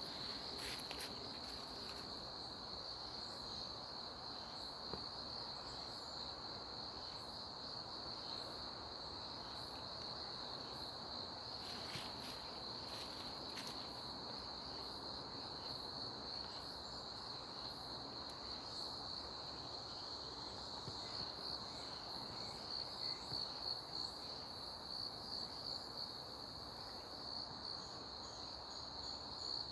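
Crickets trilling: a steady high-pitched trill that runs on without a break and turns pulsing near the end, with a few light clicks over it.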